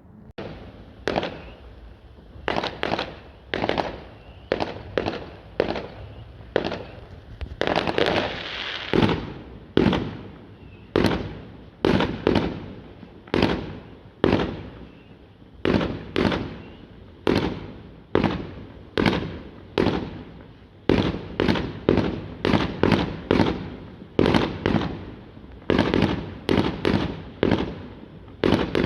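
Fireworks going off in a long, rapid series of sharp bangs, about one to two a second, each trailing off in an echoing tail.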